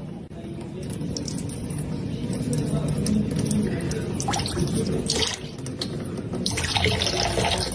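Water running and splashing, louder near the end.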